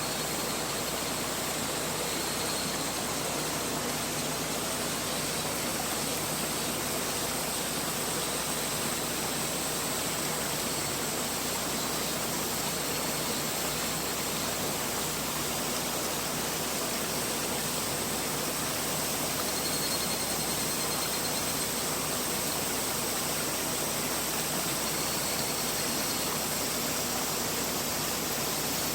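Mountain river flowing, a steady rushing of water.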